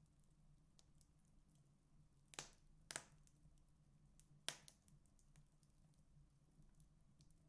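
Burning firewood crackling softly, with scattered small ticks and three sharper pops, the loudest about four and a half seconds in.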